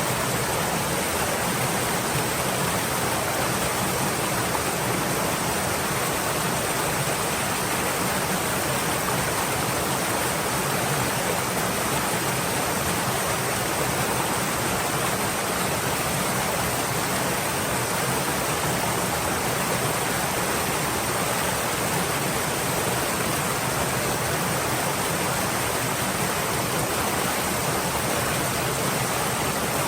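A stream's water flowing steadily, an even rushing hiss with no breaks or changes.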